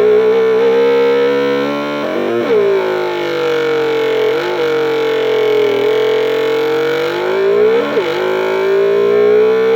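Homemade oscillator-based motorcycle engine sound generator buzzing through a small amplifier in a wooden box, a distorted electronic engine note with a wavering pitch. Four or five times the note blips sharply down and back up, like a blip of the throttle.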